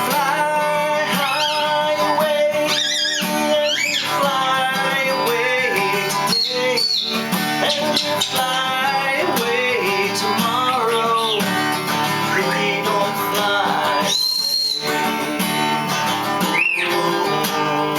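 Acoustic guitar playing steadily, with high whistled notes and warbling glides over it, one long high whistle held about fourteen seconds in and a rising one near the end.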